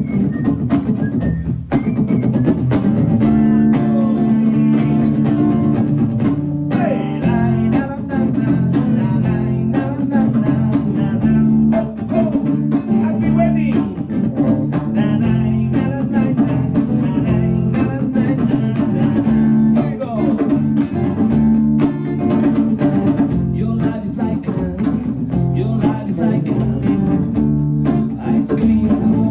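Live band playing a song: bass guitar and drum kit keeping a steady groove, with guitar over them.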